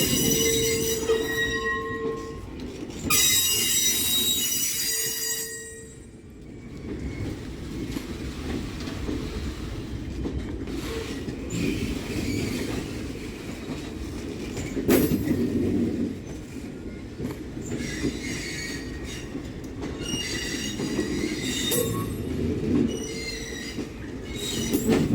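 Passing train's wheels squealing against the rails, high-pitched and loud for the first few seconds, then fading to a steady rumble of the cars, with the squeal returning in shorter bouts near the end.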